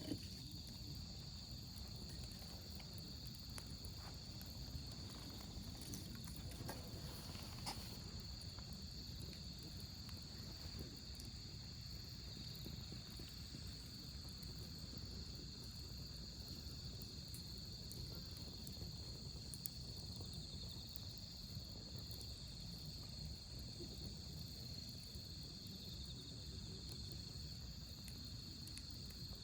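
Crickets trilling steadily at one high pitch, over the low hiss of a wood campfire that gives off a few sharp crackles.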